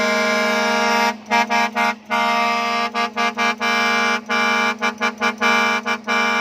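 Twin-trumpet air horn on a rice combine harvester. It sounds one steady blast, then from about a second in breaks into a string of short toots in quick succession.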